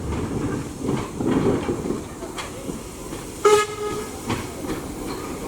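Steam train running on the line, with a steady rumble and rail noise. About three and a half seconds in comes a brief high-pitched note lasting under half a second.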